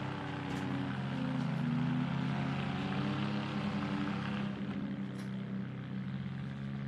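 Engines of demolition derby mini trucks running, a steady drone whose pitch shifts slightly as the drivers work the throttle.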